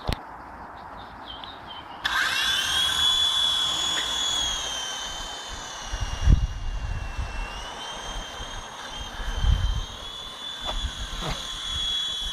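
Small electric motors of a remote-control toy helicopter spinning up about two seconds in, then a steady high-pitched whine as the rotors run, dipping slightly in pitch midway and rising again. A few low thumps come about six and nine seconds in.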